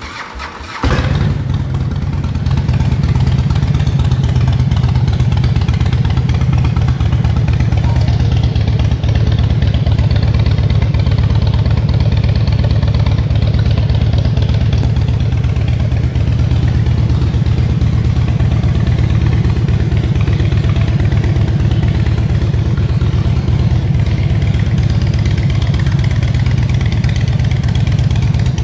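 2005 Harley-Davidson Softail's V-twin engine starting about a second in, then idling steadily.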